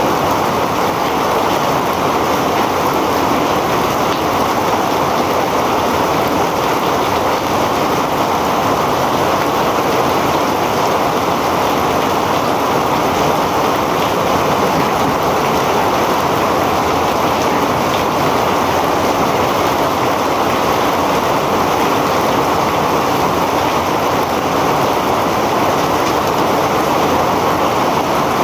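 Heavy rain pouring down steadily, an even, unbroken rushing hiss.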